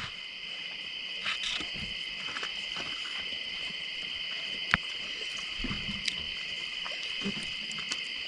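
A steady, high-pitched chorus of insects, typical of crickets in a forest, with a few faint short clicks, one sharper click about halfway through.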